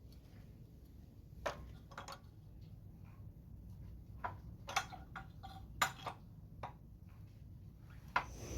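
Scattered sharp metal clicks and light knocks, about a dozen, unevenly spaced, some ringing briefly: hand tools working on the old Ford tractor's engine, over a steady low background rumble.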